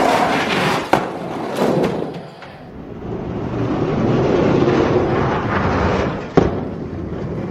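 Die-cast toy monster trucks rolling fast down a toy race track, their wheels making a steady rumble that swells and fades. Sharp knocks sound about a second in and again near the end.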